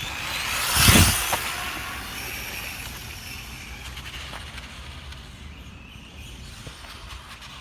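Super Rider SR5 1:4 scale RC dirt bike's electric motor whining as it speeds past close by about a second in, then fading as it rides away over the dirt.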